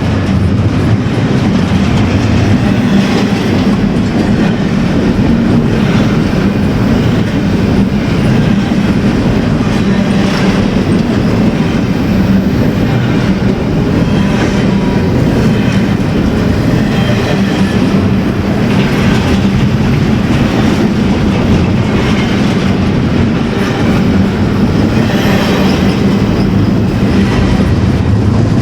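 A train rolling steadily past at close range, with a continuous wheel-on-rail rumble and irregular clicks every few seconds as wheels cross rail joints. Faint squeals come and go.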